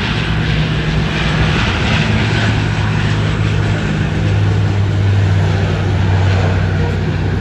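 Airliner engines running at high power: a loud, steady drone with a low hum over a rushing hiss, the hum shifting lower and growing stronger about four seconds in.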